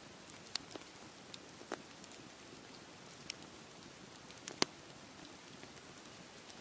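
Campfire crackling: scattered sharp pops and snaps over a steady hiss, with one louder pop near two-thirds of the way through.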